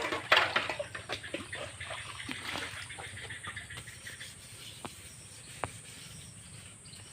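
Metal cooking pots and dishes being scoured by hand, with scraping and clattering that are busiest in the first three seconds and then thin to a few single clinks.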